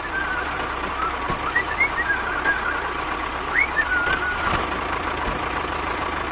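A vehicle engine running steadily, with a constant whine over a low drone and small warbling chirps above it.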